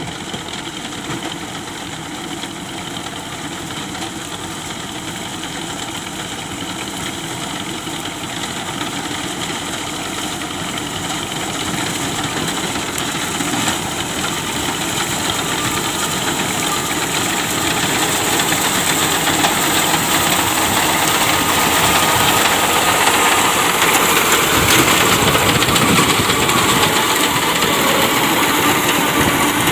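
Tractor diesel engine running steadily, growing gradually louder and brighter through the second half.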